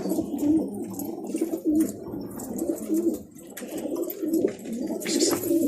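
Several domestic pigeons cooing at once in a loft, their low, wavering coos overlapping without a break.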